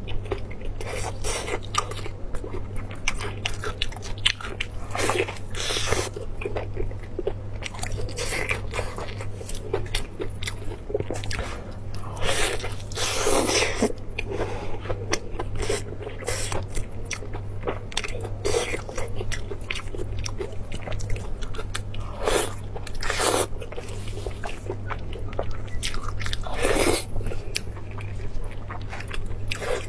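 Chewing and biting on braised meat, with irregular crunches and wet squishes, over a steady low hum.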